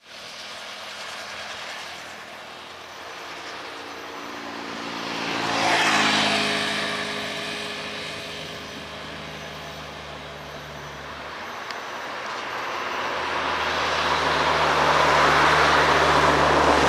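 Heavy trucks' engines climbing a hill: one passes close about six seconds in, its pitch dropping as it goes by, then another draws near and grows steadily louder toward the end.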